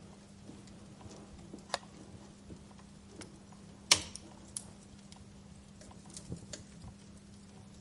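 Wood fire crackling: scattered small snaps, with one sharp, loud pop about four seconds in.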